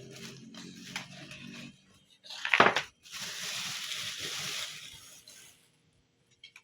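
A sharp knock, then water running for nearly three seconds, as when filling or rinsing a glass electric kettle.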